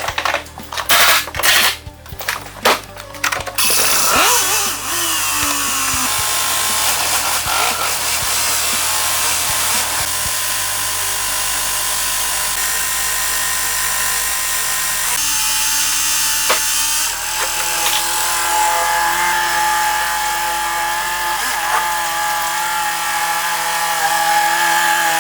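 A quick run of sharp knocks, then a power tool running steadily, with background music playing under it.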